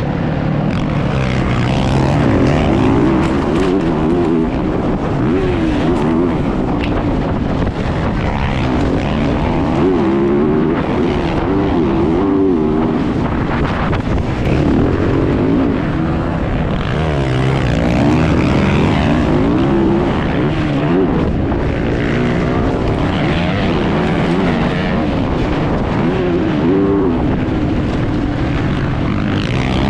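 Motocross bike engine heard from on board during a race, its pitch rising and falling over and over as the throttle opens and closes through the track.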